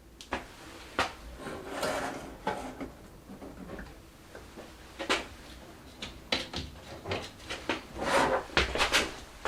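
Scattered sharp clicks and light knocks with short stretches of rustling, the sound of small parts and tools being handled, busiest near the end.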